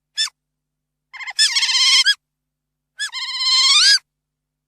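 Otter calling: a short high chirp, then two longer high-pitched calls of about a second each that waver in pitch.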